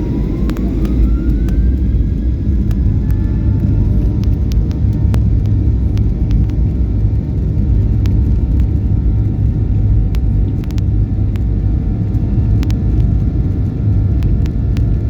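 Airplane accelerating down the runway for takeoff: a steady heavy rumble, with an engine whine that rises over the first two seconds and then holds, and scattered clicks and rattles.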